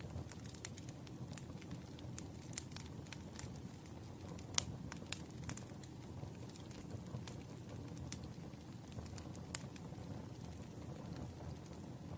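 Wood fire burning with a steady low rush and irregular crackles and pops, the sharpest pop about four and a half seconds in.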